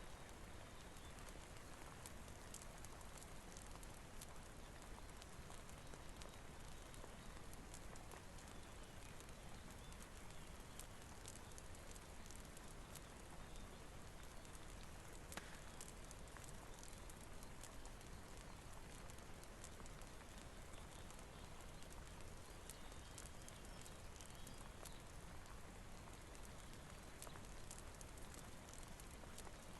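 Faint steady rainfall hiss with scattered small crackles and pops from a wood fire.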